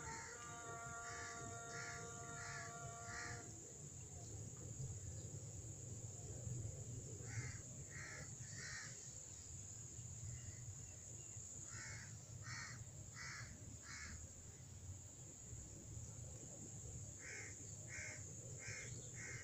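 A bird calling in four bouts of three to six calls each, the calls a little over half a second apart, over a steady high-pitched hiss and a low rumble.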